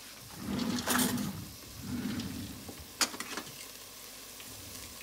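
Chopped tomato, onions and green onions frying in butter in a stainless steel pot, with a light sizzle. Two short louder noises come about one and two seconds in, and a few sharp clicks about three seconds in.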